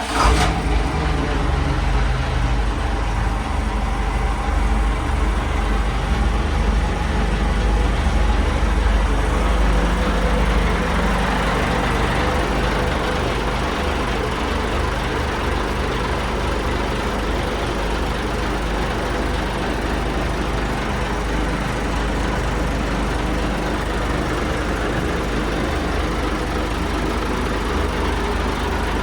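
Yamaha DY39 boat's engine running just after starting, a little louder and less even for about the first ten seconds, then settling to a steady idle.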